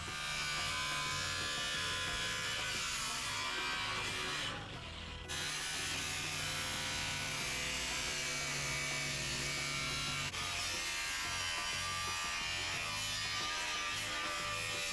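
Angle grinder running and cutting through metal, a steady high whine with harsh cutting noise. About four and a half seconds in the cutting noise drops away for under a second, then the disc bites again.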